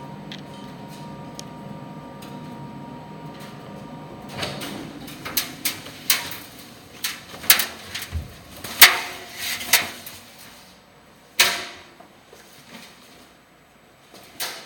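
Primus tumble dryer humming steadily. About four seconds in, the hum's tones stop and a run of sharp clacks and knocks follows, like a door or panel being handled. Two more single knocks come near the end.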